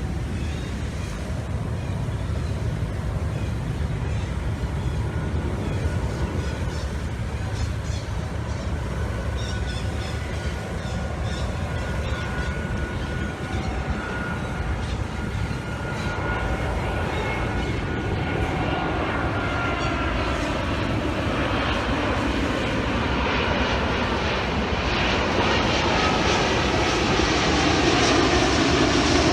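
A steady engine drone that slowly grows louder through the last third, with faint tones sliding in pitch near the end.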